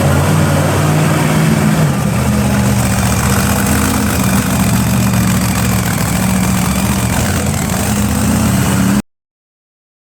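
Monster truck engine running at a steady idle, a deep, even rumble. The sound cuts off abruptly near the end.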